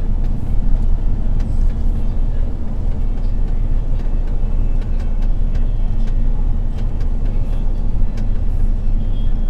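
MAN truck's diesel engine running steadily while driving: an even low drone, with scattered light clicks and rattles.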